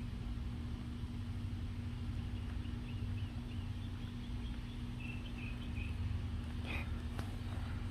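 A small bird chirping, a quick run of short high chirps through the middle, over a steady low hum, with a couple of light clicks near the end.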